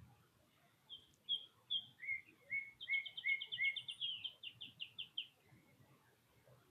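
Small songbirds singing outdoors. There are a few separate whistled notes, then overlapping series of notes, including a fast run of repeated notes that slows and stops about five seconds in.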